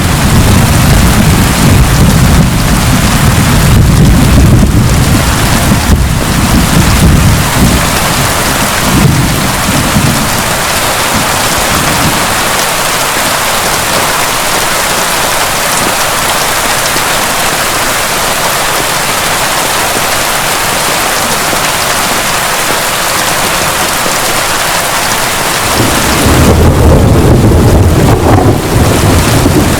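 Heavy, steady rain with rolling thunder. A long low rumble dies away about ten seconds in, and another rumble builds up near the end.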